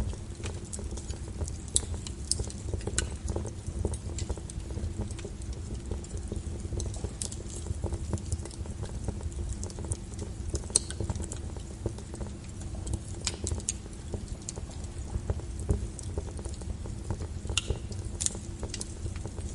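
Log fire burning in a fireplace: a steady low rumble with irregular sharp crackles and pops.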